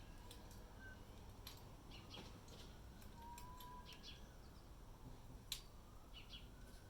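Faint, scattered bird chirps over a low background hiss, with a few light clicks, the sharpest about five and a half seconds in.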